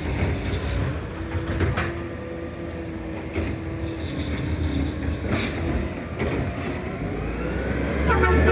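McNeillus ZR automated side loader garbage truck running close by, a steady low rumble with a faint held hum and a few knocks, growing louder near the end.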